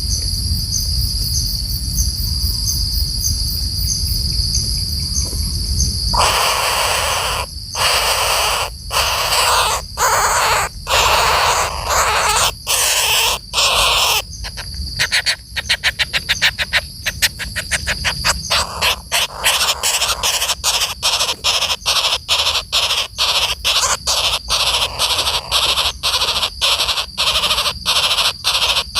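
A woodpecker giving loud, harsh calls. They start about six seconds in as long rasping calls, turn into a fast rattle, then settle into short calls about twice a second. Before the calls begin, a high steady insect drone pulses.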